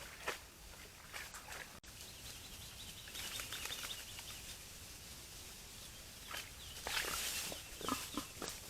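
Wild boars moving and rooting through dry leaf litter: irregular rustling and crunching steps, loudest about seven to eight seconds in.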